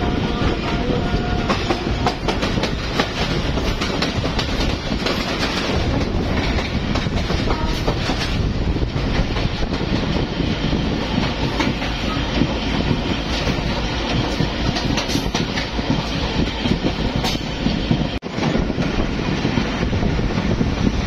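Passenger train running at speed, heard from a coach window: a steady rumble and rush with the wheels clattering irregularly over the track. It drops out for a moment near the end.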